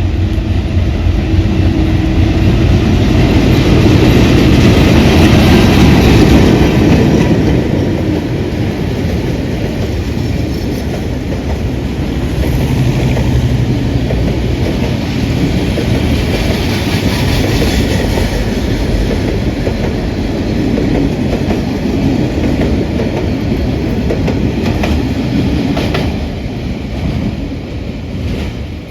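Passenger train rolling past close by, wheels clattering over the rail joints in a loud steady rumble, loudest about four to seven seconds in.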